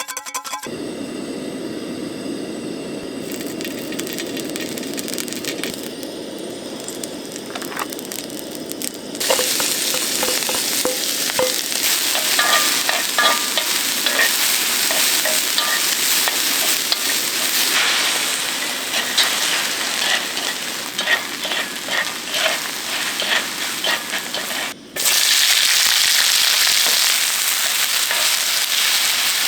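Food sizzling as it fries on a hot grill, a steady hiss with scattered pops and crackles. The sound changes abruptly about half a second in, again about nine seconds in, and drops out briefly near the end, as edited clips follow one another.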